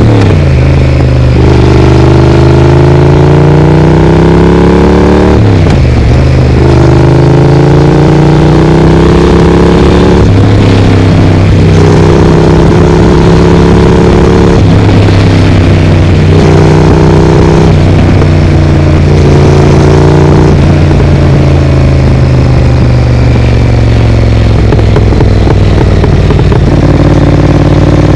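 Triumph Speed Twin's parallel-twin engine breathing through an aftermarket Vance & Hines exhaust, accelerating through the gears: the pitch climbs and drops back at each upshift, several times in the first half. Later the pitch sinks slowly as the bike eases off.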